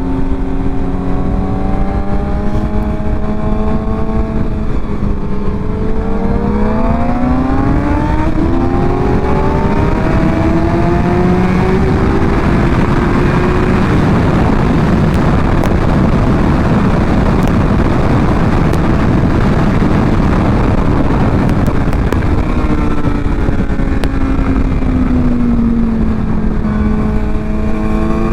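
Motorcycle engine running steadily, then accelerating hard with a rising pitch. About halfway through the engine note is buried under heavy wind rush at speed, and near the end the engine pitch falls as the rider eases off.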